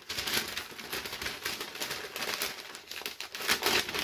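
Paper and plastic packing being handled and crinkled while a shipping box of comics is unpacked, with dense irregular crackles throughout.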